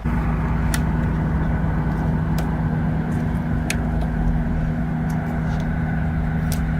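A motor running steadily with a low, even drone, with a few short sharp clicks over it.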